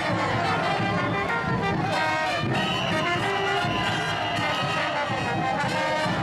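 Brass band playing, horns holding long notes over repeated percussion strokes.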